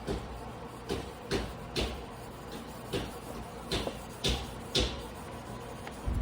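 Yoshihiro Hayate Damascus carbon-steel sashimi knife being stroked by hand across a whetstone: a short scraping swish with each stroke, about eight strokes at uneven spacing.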